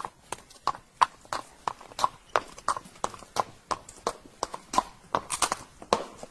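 Horse's hooves clip-clopping in a steady rhythm, about three strikes a second.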